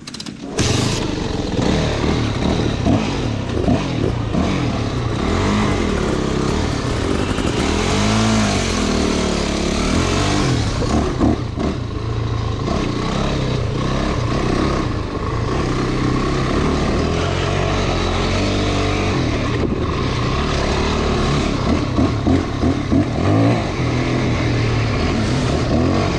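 Motorcycle engine running hard and revving up and down as it is ridden along a dirt trail. It comes in suddenly about half a second in.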